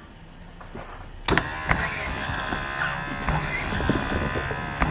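A vapour-blasting cabinet starts up a little over a second in: a steady machine hum with several even tones and a hiss.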